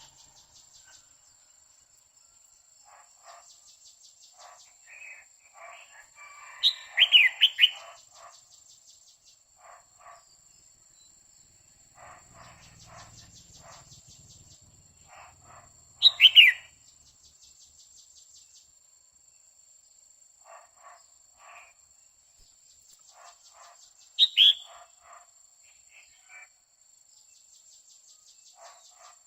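Female red-whiskered bulbul calling: three short, loud calls spaced about eight seconds apart, each a quick falling phrase, with faint chirps between them. An insect trill pulses faintly in the background.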